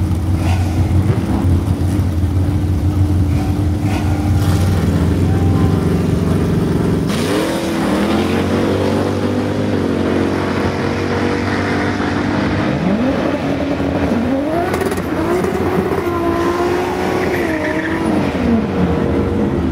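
A car engine idling with a low, steady rumble. About seven seconds in, a Toyota Supra MKIV's single-turbo 3.4-litre stroker straight-six starts revving, its pitch rising and falling several times as it does a burnout in the water box.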